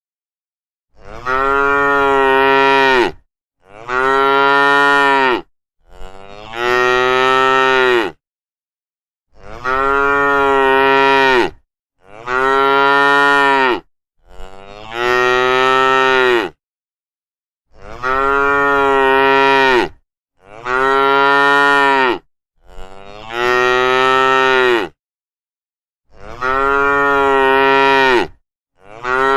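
Cows mooing: about eleven long, near-identical moos, each around two seconds long and falling in pitch at the end, one after another with short silent gaps between them.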